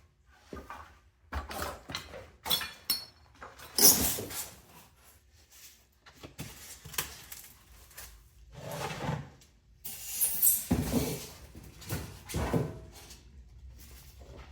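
Old, rodent-chewed cardboard packaging being torn and pulled away by hand in irregular bursts of scraping and rustling, with a brief squeak about two and a half seconds in.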